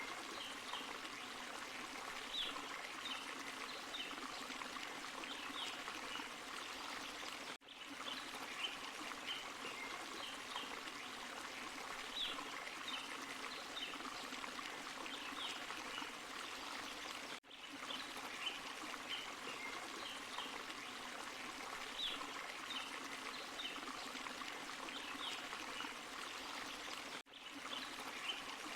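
Forest stream and small waterfall: steady rushing and trickling water with many small high splashes over it. The level dips briefly about every ten seconds.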